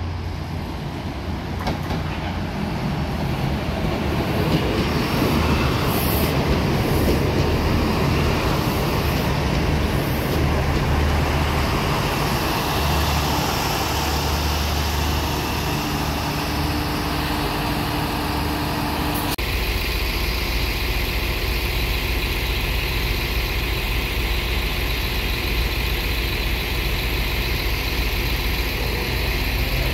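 Northern Ireland Railways diesel multiple unit pulling into a station platform. It rumbles louder as it approaches and runs past, then brakes to a stand about two-thirds of the way through. Its engines then idle steadily at the platform.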